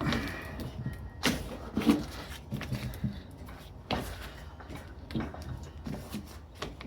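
Scattered light clicks, taps and scrapes from small metal drill parts and tools being handled while caked grease is cleaned out of an old electric drill, with a brief thin squeak near the start.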